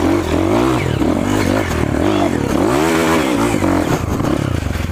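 Off-road trail motorcycle engine revving up and down, its pitch rising and falling several times, with the biggest swell about three seconds in.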